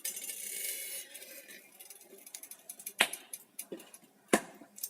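Kitchenware being handled at an electric kettle while oil heats: a soft hiss that fades out over the first second and a half, then light ticks and two sharp hard clicks, about three and four and a quarter seconds in.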